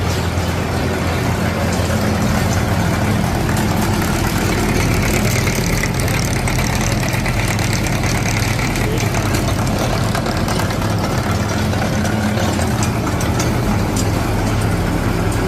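Tractor engine running steadily at a constant speed, with a low even hum under a rougher noise.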